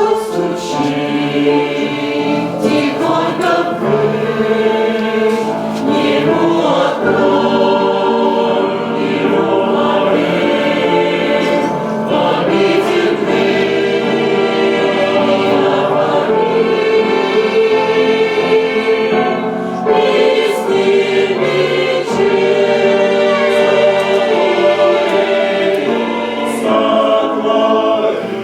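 Church choir singing a Christian song, many voices holding sustained chords together.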